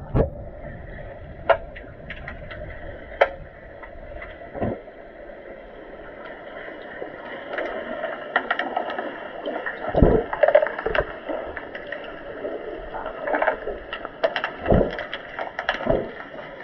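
Swimming-pool water noise from players in an underwater hockey game: steady sloshing and splashing, with scattered sharp knocks and several louder splashes in the second half.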